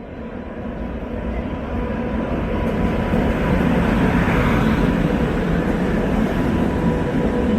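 Train moving on the tracks close by, its rumble swelling over the first few seconds and then holding steady, with a faint steady whine running through it.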